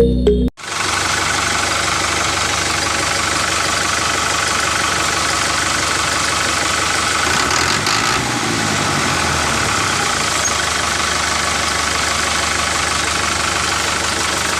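Small motor of a homemade mini tractor running steadily, an even mechanical drone that starts as the music cuts off about half a second in.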